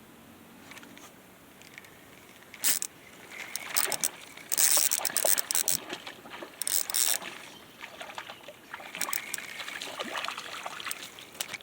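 Water splashing in irregular bursts, loudest for a second or so midway, with smaller splashes and sloshes either side.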